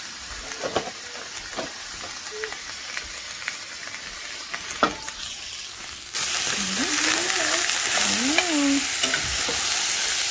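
Chopped vegetables sautéing in a frying pan as they are stirred with a utensil: light clicks and scrapes over a soft sizzle, then about six seconds in the sizzle jumps suddenly louder and stays steady.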